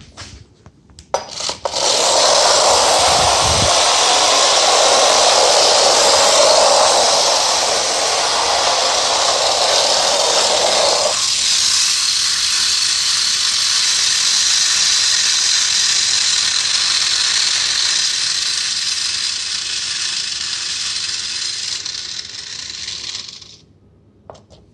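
Clockwork motor of an Arnold tin toy motorcycle running down, a loud steady metallic whirring rattle. It starts about two seconds in, thins out about halfway through, and cuts off suddenly near the end as the spring runs out.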